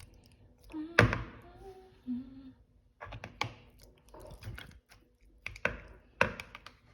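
Kitchen cookware and utensils knocking and clattering, about seven sharp knocks with the loudest about a second in, with a few short hummed notes in the first couple of seconds.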